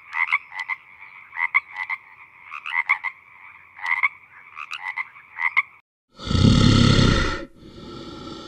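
Frogs croaking in a chorus of short, clicking calls, several a second. About six seconds in this cuts off; a loud, breathy sound lasting about a second follows, then a quieter, steadier one.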